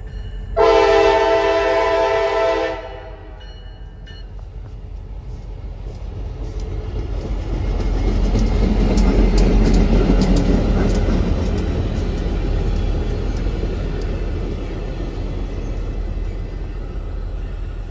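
CSX GP40WH-2 diesel locomotive sounding one horn blast of about two seconds, then passing close by, its engine rumble peaking about eight to ten seconds in. The track geometry train's passenger-style cars follow, with wheels clicking over the rail joints.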